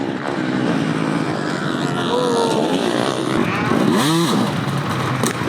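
Off-road racing motorcycle engines running and revving, with one sharp rev that rises and falls about four seconds in.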